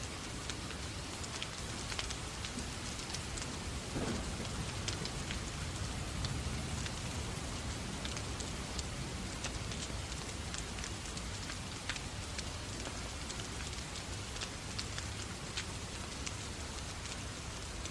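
Steady rain mixed with fireplace crackle: an even hiss with many scattered sharp ticks. A low rumble swells about four seconds in and fades over the next few seconds.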